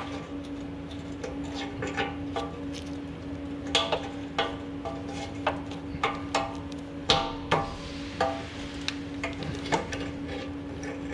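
Irregular metallic clinks and knocks, some ringing briefly, as hanger pliers and the steel exhaust pipe and muffler knock together while rubber exhaust hangers are pried off, over a steady low hum.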